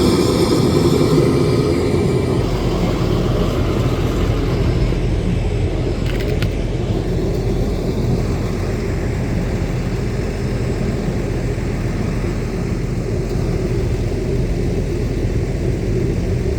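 Steady low engine rumble with no speech; a deep hum underneath becomes steady about two and a half seconds in.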